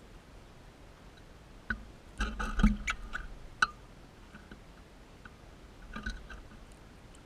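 Crimson rosella making short clicks and taps: a quick cluster in the middle and a few single ones before and after.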